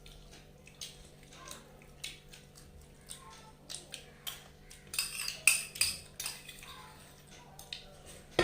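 Scattered clinks and taps of plates, bowls and cutlery during a meal, busiest about five to six seconds in.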